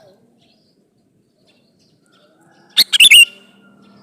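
Sooty-headed bulbul (kutilang) giving a short, loud burst of chirping call notes a little under three seconds in, after near quiet.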